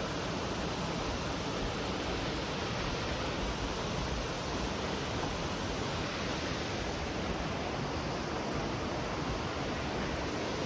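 Steady rush of fast-flowing stream water, an even roar with no break.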